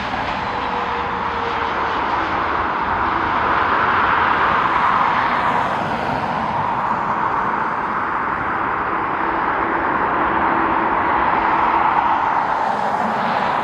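Jet airliner engines running, a steady loud rushing noise with a faint hum beneath, swelling slightly about four seconds in and again near the end.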